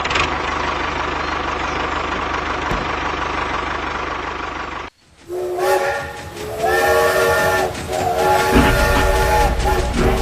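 A steady hiss with a low hum, cut off abruptly about halfway; then a loud horn-like chord of several notes at once, sounding in long blasts with short breaks.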